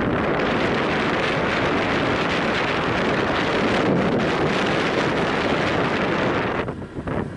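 Wind rushing over the microphone of a moving motorbike, a steady loud noise with the ride's road noise mixed in; it drops briefly near the end.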